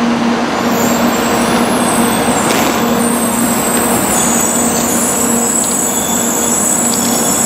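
Shinkansen trains standing at a station platform: a steady mechanical hum and hiss with a constant low tone.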